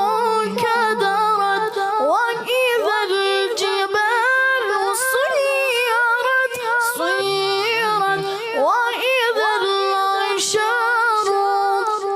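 A single high voice chanting a Quran recitation in melodic tajweed style, holding long notes and gliding between pitches with ornaments.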